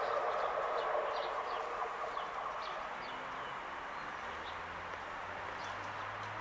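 Train running noise dying away over the first few seconds as the train recedes, with small birds chirping repeatedly. From about four seconds in, a faint low hum builds as another electric train approaches from the distance.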